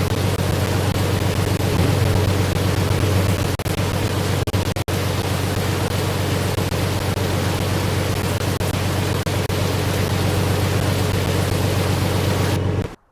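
Loud, steady rushing wind noise with a few brief dropouts, cutting off suddenly near the end.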